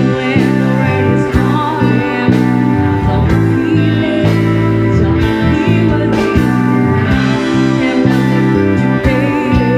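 A live rock band playing loudly: electric guitar over bass and drums.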